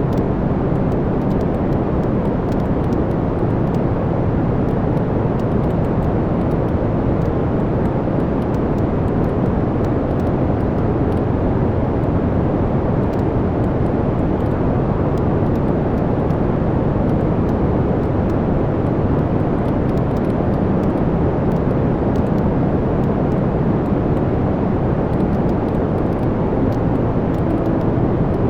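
Wood fire burning in a fireplace: a steady, even low rushing roar with many faint small crackles of burning wood.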